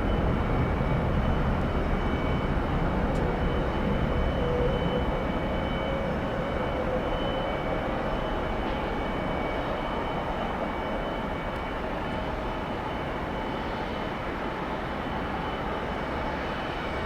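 Jet engine noise from a departing Boeing 757-300 climbing away after takeoff: a steady rumble that slowly fades.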